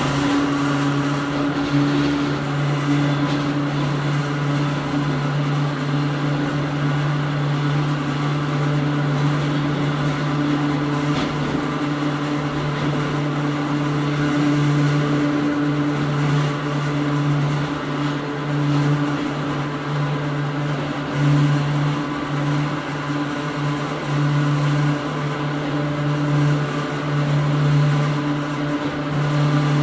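Hakone Tozan Railway Moha 1 electric railcar with old-style nose-suspended traction motors, heard running from inside the car. Its low motor-and-gear hum holds one steady pitch over a continuous wheel-and-rail rumble.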